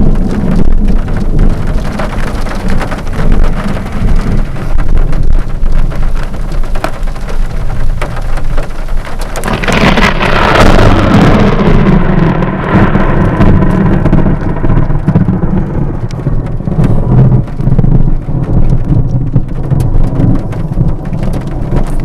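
Heavy rain pouring steadily. About ten seconds in, a sudden thunderclap from a close lightning strike, then a long low rumble that rolls on beneath the rain.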